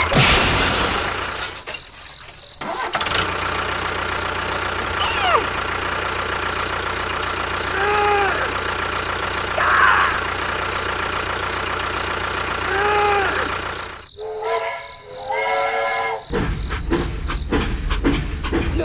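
An engine running steadily with a low rumble that drops out briefly about two seconds in and again near the end. Over it, the same short arching tone sounds twice, with a stack of pitched tones near the end.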